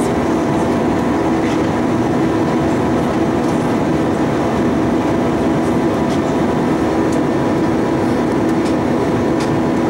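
Steady cabin noise inside an Airbus A320-232 in flight: the drone of its IAE V2500 engines mixed with the rush of air past the fuselage, with a few constant hums.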